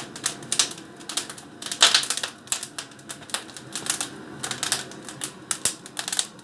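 Firewood burning in an open brick fireplace, crackling and popping in irregular sharp snaps, a few to several a second, with a brighter snap about two seconds in.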